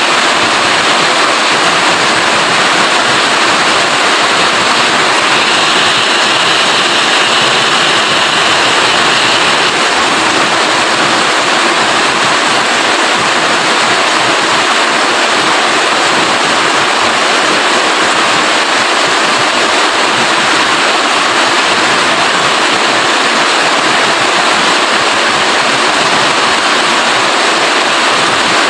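Steady rain falling, a dense even hiss with no breaks; it turns slightly brighter and sharper for a few seconds near the start.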